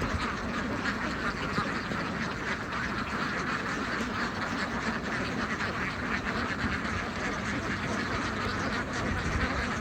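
A large flock of domestic ducks quacking without pause, many calls overlapping.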